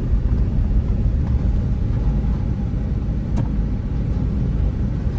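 Car driving along, its engine and tyres making a steady low rumble heard from inside the cabin. A single short click comes a little over three seconds in.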